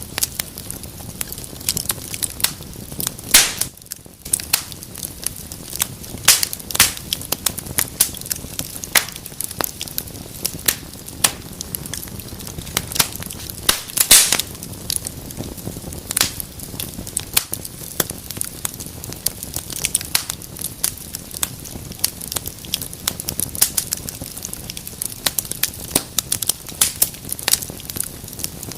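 Wood fire burning in a fireplace: a steady low rush of flames with frequent sharp crackles and pops from the burning logs, a few louder pops standing out.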